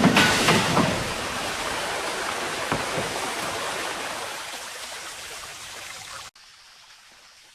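Steady rushing noise like running water, fading slowly and cutting off abruptly about six seconds in.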